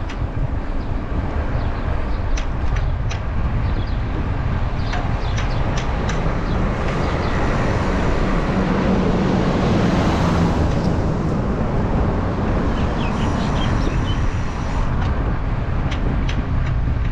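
Highway traffic and wind noise heard from a moving bicycle: a steady low rumble and hiss that swells to a peak about ten seconds in as a vehicle passes, then eases back.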